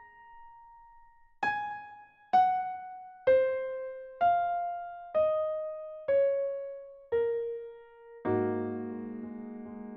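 Background piano music: a slow melody of single notes, about one a second, each ringing and fading, with a fuller chord about eight seconds in.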